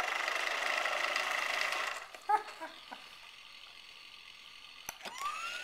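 Toy fire truck rolled along, its wheels and gears rattling for about two seconds, then a click. Near the end its electronic siren starts up with a rising wail.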